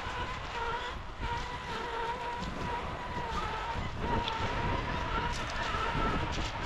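Electric motor whine of an RC rock-crawler truck driving in short stretches, the pitch wavering slightly as the throttle changes. A low rumble of wind and waves runs underneath.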